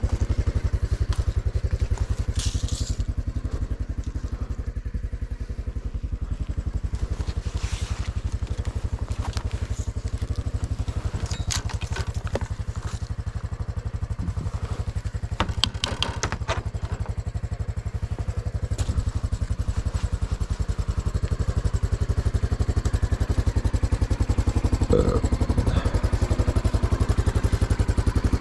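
Small single-cylinder engine running steadily at a low, even pulse, with a few scattered clatters and knocks over it.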